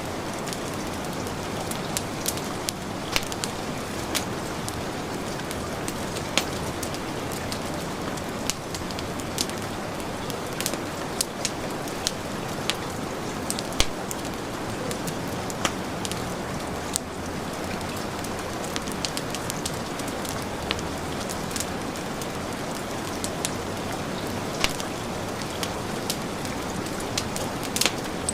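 Heavy rain falling steadily, with a wood fireplace crackling over it in irregular sharp pops, about one or two a second.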